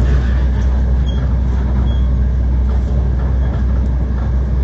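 Steady low rumble of a Class 720 Aventra electric multiple unit running, heard from inside the passenger saloon.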